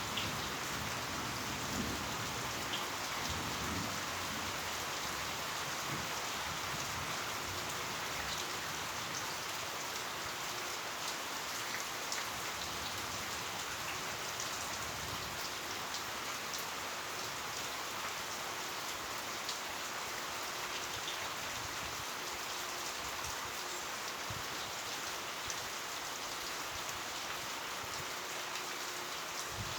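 Heavy rain falling steadily, a dense even hiss with scattered sharp drop ticks, and a faint low rumble in the first couple of seconds.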